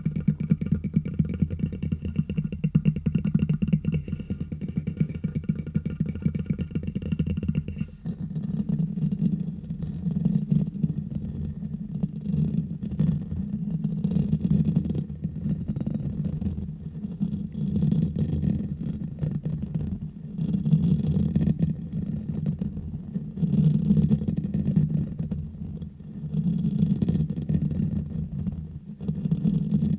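Fingers tapping and scratching fast directly on a microphone, a dense, bassy rumbling patter. About 8 seconds in the even rapid patter gives way to uneven swells lasting a second or two.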